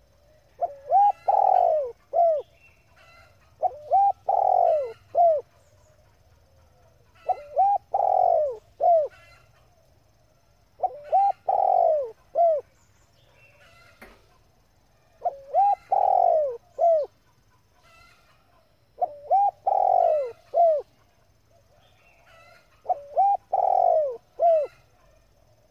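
Female spotted dove cooing: seven phrases, one about every three and a half to four seconds. Each phrase has a couple of short coos, a long drawn coo and a short closing note.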